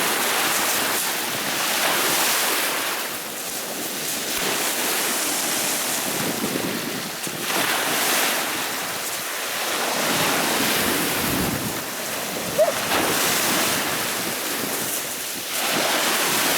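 Black Sea waves breaking and washing on the shore, swelling and falling back every few seconds, with wind on the microphone. A brief high squeal cuts in about three-quarters of the way through.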